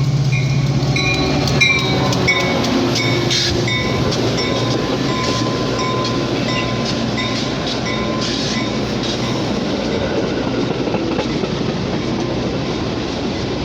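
Metra UP West commuter train arriving at the platform, its cars rolling past with steady rumble and wheel clatter over the rail joints.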